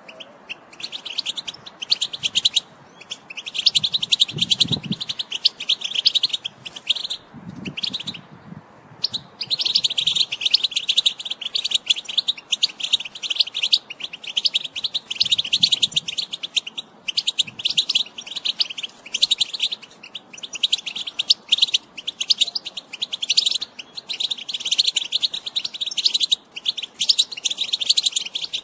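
European goldfinch twittering in its rapid, chattering 'batbata' song, nearly continuous with brief pauses.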